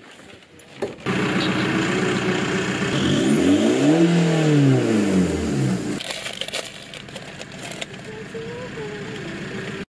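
Small hatchback's engine starting about a second in, revved up and back down once, then settling to a quieter idle.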